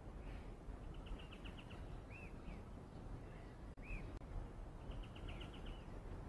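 Faint birdsong over a low steady outdoor rumble: a short rapid trill of about seven notes about a second in and another near the end, with two single arched chirps between them.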